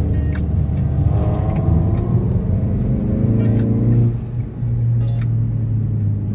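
A car engine revving up as the car accelerates, dropping briefly about four seconds in as at a gear change, then running steadily; music plays along.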